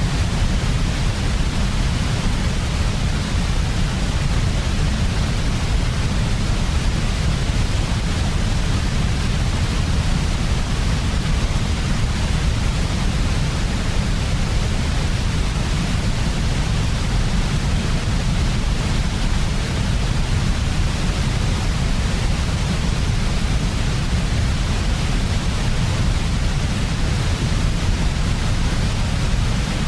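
Steady, unchanging white noise of a baby-sleep sound track, with a deep rumble underneath and a hiss above.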